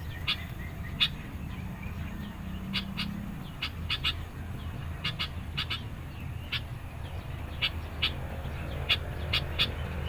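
Sooty-headed bulbul calling in short, sharp chips, singly and in quick pairs, about two a second, over a steady low hum.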